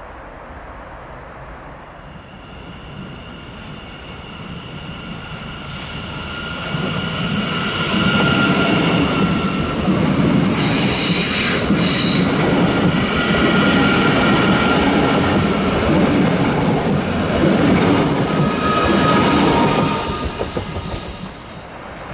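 Siemens Mireo (class 463) electric multiple unit running past close by, swelling over several seconds and dropping away near the end. High wheel squeal comes and goes over the curved track, with clatter over the points.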